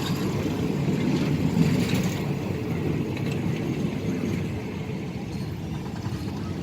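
A train running on the track with a steady low rumble.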